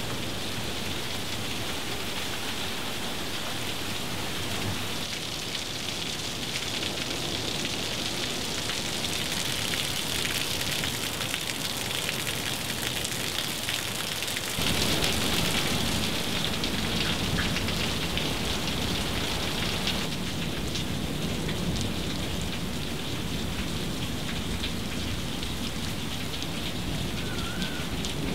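Rain falling steadily, a continuous hiss of drops splashing on hard surfaces. About halfway through, the rain sound gets a little louder and fuller in the low end.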